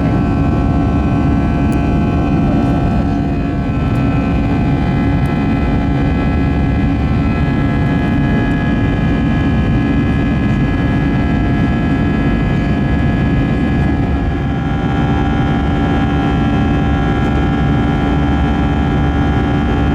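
Airbus A320 jet engines and airflow heard inside the passenger cabin in flight: a steady deep rumble with several steady whining tones above it.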